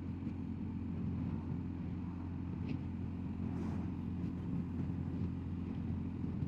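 BMW R1250GS Adventure's boxer-twin engine running at a steady cruise, heard muffled under a faint hiss of road and wind noise.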